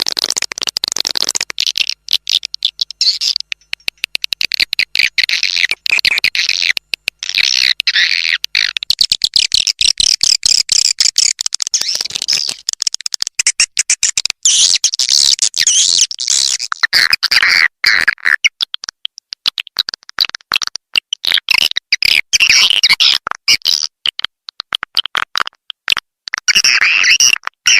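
Edible-nest swiftlets twittering in a dense chorus: rapid high chirps over a fast crackle of clicks. This is a swiftlet call recording of the kind played to lure swiftlets into a nesting house.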